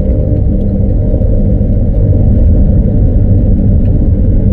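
An engine running steadily: a loud, low rumble with a steady hum.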